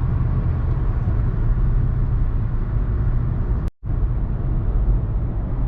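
Steady road and engine rumble heard from inside a moving car at highway speed. The sound drops out for a split second about two-thirds of the way through.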